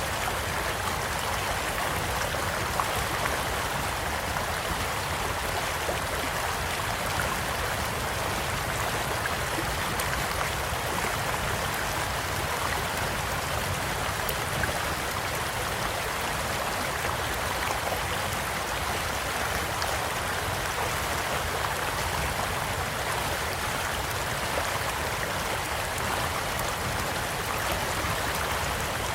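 A small stream flowing steadily with an even rushing of water, and scattered faint crackles and pops from a campfire.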